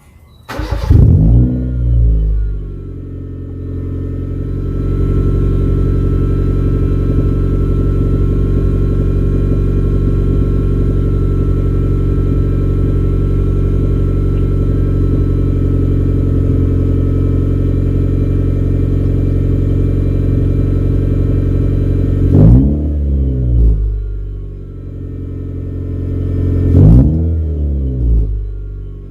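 Honda City four-cylinder engine on a full free-flow exhaust with the catalytic converter deleted: it starts with a brief flare of revs, settles into a steady idle, then is revved twice near the end, each rev climbing and falling back to idle.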